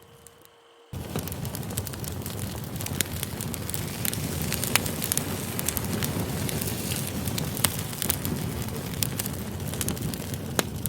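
Campfire burning: a steady dense crackle with scattered sharp pops, cutting in suddenly about a second in after a brief quiet gap.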